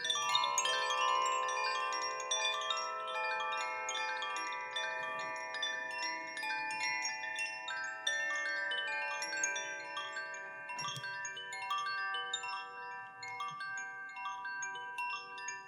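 Wind chimes ringing in a sound healing session: many bright, overlapping metallic tones that sustain and blend, with a fresh swell of strikes at the start and again about eight seconds in.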